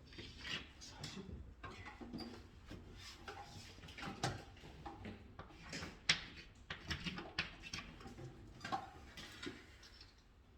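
Irregular clicks, taps and rustles of hand work with small tools and parts, with one sharper click about six seconds in.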